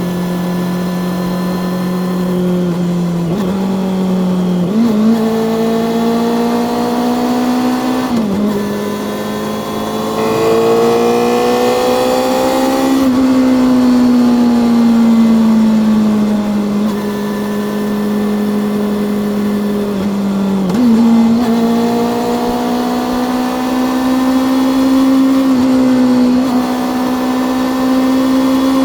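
Honda CB400 Super Four's inline-four engine and exhaust under way, the engine note climbing and sinking with the throttle, broken by several sudden jumps in pitch, over wind and road noise.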